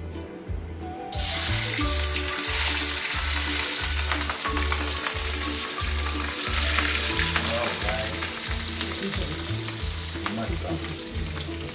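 Dried prawns frying in hot shallot oil, a dense sizzle that starts suddenly about a second in and keeps going steadily. Background music with a steady beat runs underneath.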